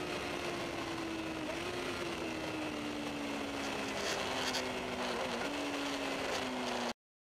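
Onboard sound of a Suzuki GSX-R750 K5's inline-four engine at speed under a steady rush of wind noise, its note falling slowly. The sound cuts off abruptly near the end.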